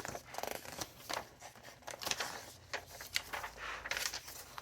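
Paper rustling and crinkling in a string of short, irregular rustles as sheets of journal paper and ephemera are handled.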